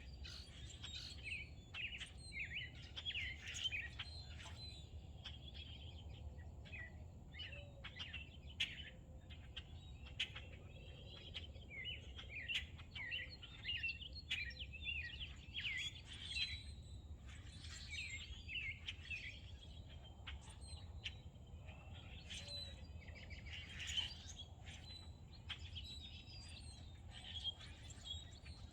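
Several wild birds chirping and singing over one another in a steady stream of short, quick notes, over a faint low hum.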